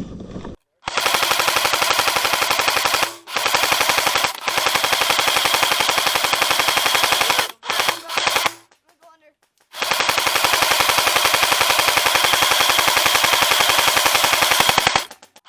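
Airsoft gun firing full-auto in long sustained bursts, a rapid even stream of shots. There are several strings of a few seconds each, a pause about nine seconds in, then one long burst of about five seconds.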